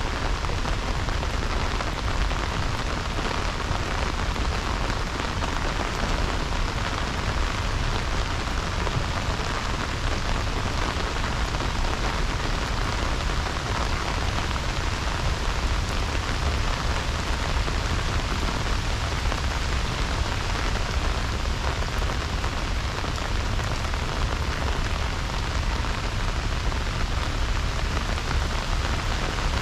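Heavy rain falling steadily, a dense even hiss of drops, with a low rumble underneath.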